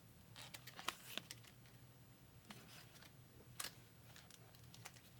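Faint crinkles and sharp clicks of a foil trading-card pack being handled and picked at by someone who cannot get it open, over a low steady hum.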